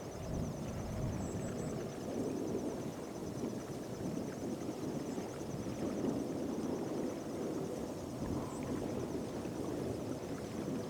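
Distant rumble of a heavy jet departing, a steady low roar with no clear pitch. A fine, rapidly pulsing high trill of insects runs under it.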